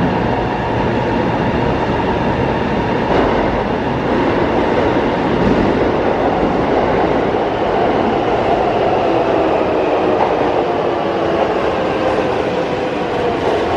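Keihan electric train moving at an underground station platform: a steady rumble of wheels on rail with a motor whine that drops a little in pitch near the end.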